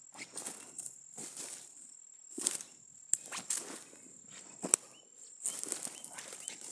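Footsteps rustling through field vegetation, about one step a second, with a few sharper snaps. A faint steady high-pitched tone sits behind them.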